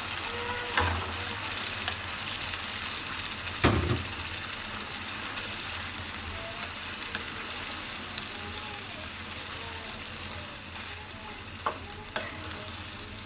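Chicken pieces sizzling in a pan of hot oil with ginger-garlic paste and yogurt, stirred, with a steady frying hiss. A few knocks of the utensil against the pan, the loudest about four seconds in.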